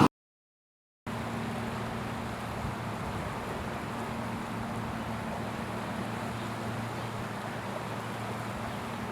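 Steady rush of the rain-swollen Los Angeles River flowing through its channel, with a low even hum underneath. It starts abruptly after about a second of silence.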